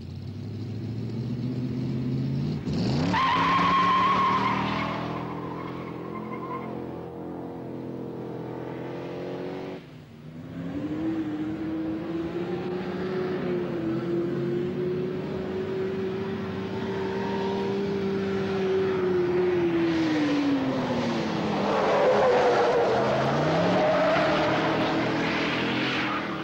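Ford Falcon GT's V8 driven hard on a race circuit, revving up sharply a few seconds in, then held at steady high revs for about ten seconds before the revs drop away. Tyres squeal as the car is thrown through corners, most strongly near the end as the rear tyres smoke.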